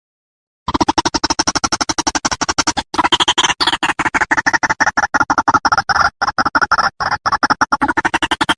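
White-breasted waterhen (ruak-ruak) call played as a lure recording. After a short pause it sets off a long, fast run of harsh, repeated notes, about ten a second, with a few brief breaks.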